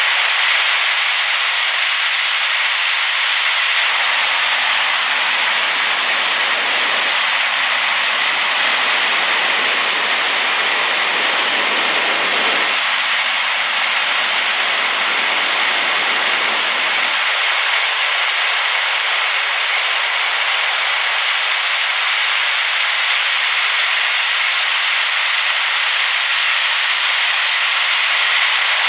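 Rain-swollen waterfall rushing: a loud, steady hiss of falling water. From about four to seventeen seconds in, a deeper layer of rumble joins it.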